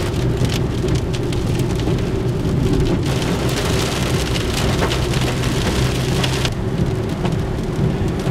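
Rain falling on a car's roof and windshield, heard from inside the moving car over a steady low road and engine rumble. The rain lightens about two-thirds of the way through.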